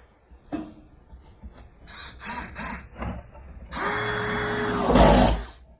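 Woodworking shop sounds: a few knocks and short scraping strokes on wood, then a small power tool's motor runs steadily for about two seconds and stops near the end.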